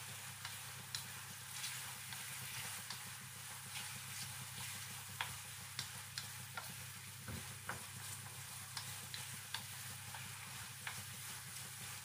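Squid rings sizzling in a frying pan of garlic sauce while a wooden spatula stirs them, with scattered light taps and scrapes against the pan over a steady low hum.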